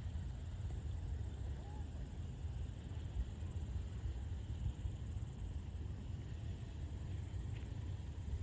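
Forest ambience: a steady low rumble with a faint, even high hiss and no distinct events.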